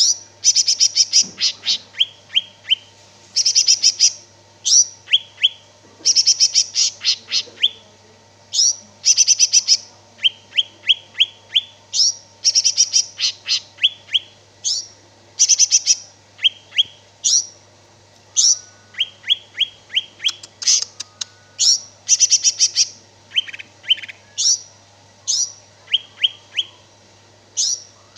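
Green leafbird (cucak ijo) singing continuously: short loud bursts of rapid high notes alternating with quick downward-sweeping chirps, a new phrase about every second. A faint steady low hum runs underneath.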